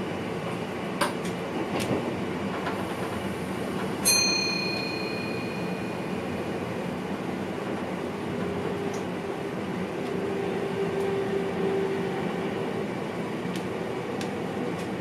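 Cab noise of an NS VIRM double-deck electric train under way: a steady rumble, with a few clicks in the first two seconds. About four seconds in comes a sharp metallic clink that rings briefly.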